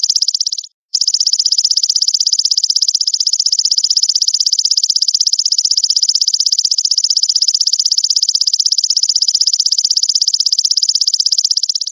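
Recorded call of a grasshopper (belalang): a loud, continuous, rapidly pulsed high-pitched buzz, cut by a brief silence just under a second in where the looped recording restarts.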